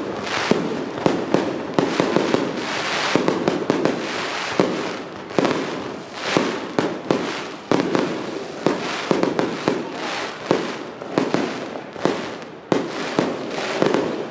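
Fireworks and firecrackers going off without a break: a steady run of sharp bangs over a continuous crackle.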